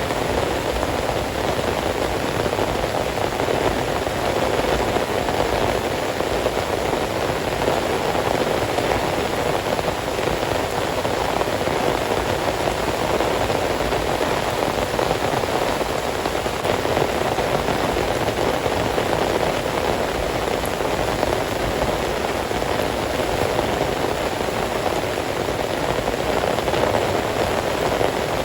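Heavy rain falling steadily, a dense unbroken patter with no letup.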